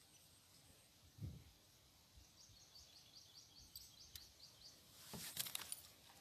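Quiet outdoor air with a bird chirping in a quick repeated series, about four short high chirps a second, from about two and a half seconds in. There is a soft low thump about a second in, and a short cluster of sharp clicks near the end, the loudest sound.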